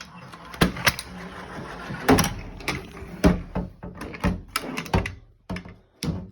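Irregular knocks and clicks, a dozen or so sharp taps and bumps of hard objects being handled and set down, as the two vehicles are repositioned on the treadmill.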